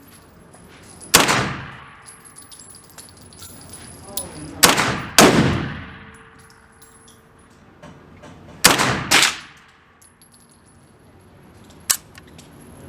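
Five gunshots, each ringing out and fading: one about a second in, a pair about half a second apart near the middle, and another pair about three-quarters through. A lighter, sharper crack follows near the end.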